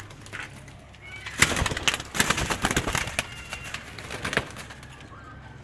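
Domestic pigeons in a loft: faint cooing, with a flurry of sharp clicks and rustles from about one and a half to four and a half seconds in.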